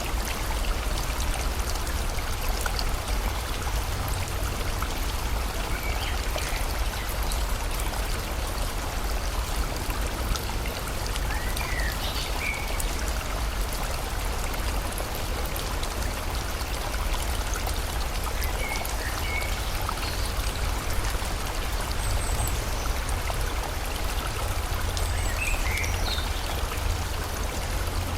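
Steady rush of a flowing river with rain falling, with a deep low rumble under it. Faint bird chirps come through now and then.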